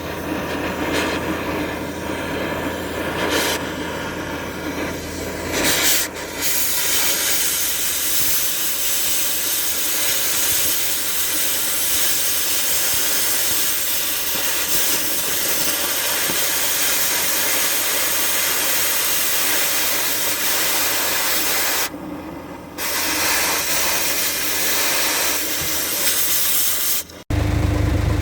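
Cutting torch hissing steadily as it burns through the bolts holding a truck's flatbed on, with a short break in the hiss about three-quarters of the way through.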